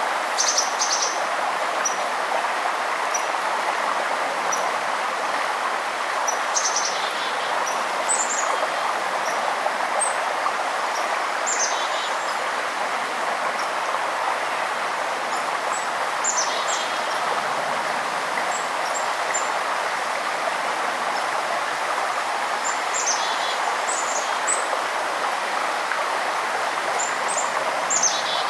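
A river's steady rushing flow, with a bird repeating a short song that falls in pitch about every five seconds, and other birds giving brief high chirps in between.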